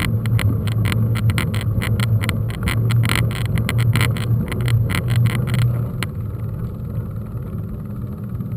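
Mountain bike riding over rough ground, a rapid clatter of rattles over a steady low rumble of wind and rolling noise; the rattling stops after a sharp click about six seconds in.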